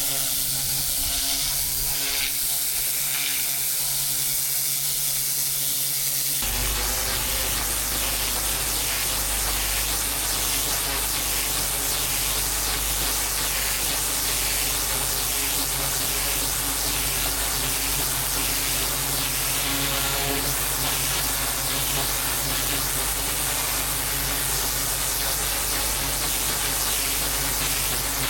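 Pressure washer lance with a turbo nozzle spraying water onto patio paving: a steady hiss over the machine's hum. About six seconds in the sound changes suddenly to a fuller, heavier spray with a low rumble, which then holds steady.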